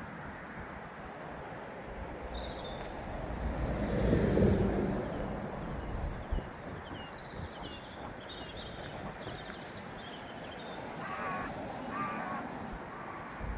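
A crow cawing twice near the end, over small birds chirping. A low rumbling swell rises and fades about four seconds in, the loudest sound.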